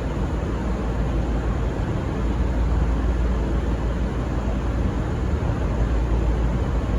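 Steady rumble and rushing noise of a diesel-hauled passenger train rolling past on departure, with no horn sounding.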